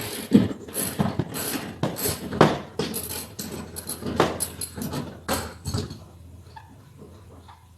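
A run of irregular sharp clicks and knocks of tools and metal being worked while a car's passenger seat is unbolted, lasting about six seconds and then dying down.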